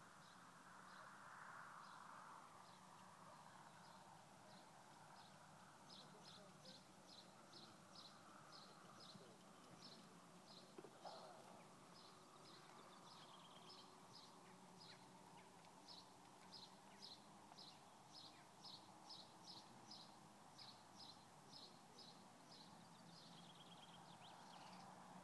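Near silence with a faint steady hum, and a small bird chirping over and over: short high notes about two a second, some in pairs, starting about six seconds in.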